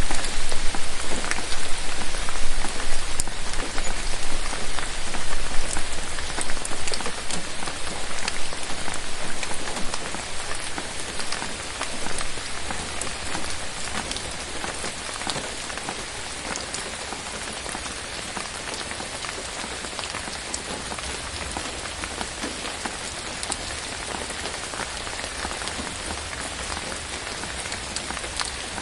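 Steady rain falling, a dense patter of drops with individual drops ticking through it. It is heavier for the first ten seconds or so, then eases to a softer, even level.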